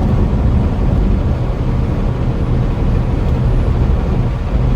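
Steady engine drone and road noise of a semi truck driving on the highway, heard from inside the cab.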